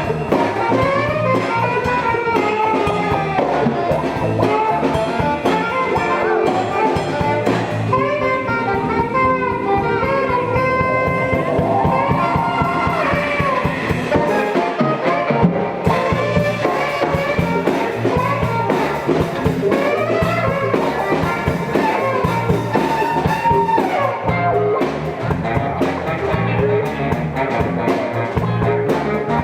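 Live band playing a jazz-funk instrumental: horns carry a winding melodic line over guitar and drum kit.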